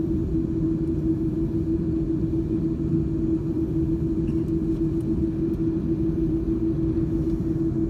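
Steady low rumble inside an Airbus A330-202's cabin on the ground after landing, with one steady hum over it: the engines and cabin air running during the taxi in.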